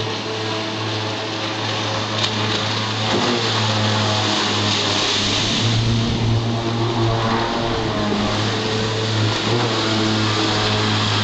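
Jet ski engine running under throttle, its note shifting up and down as the rider speeds up and eases off.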